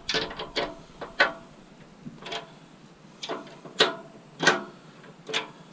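Irregular metallic clinks and knocks of scrap metal pieces being handled, about a dozen sharp strikes, some ringing briefly.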